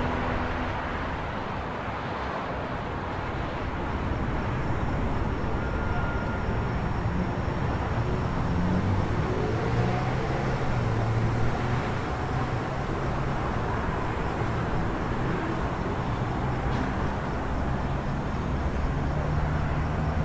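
City traffic ambience: a steady rumble of road traffic with engine hum, and one vehicle's engine rising in pitch partway through.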